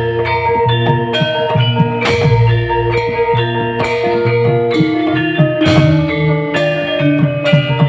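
Live band playing instrumental music: drum hits over a bass line and a melody of sustained notes.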